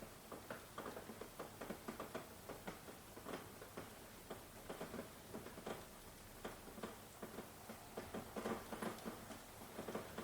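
Rain falling, heard as many irregular drips and taps over a faint hiss, a little denser near the end.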